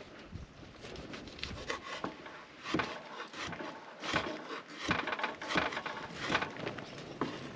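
Dry wood knocking and scraping in irregular strokes, several sharp knocks among softer rubbing.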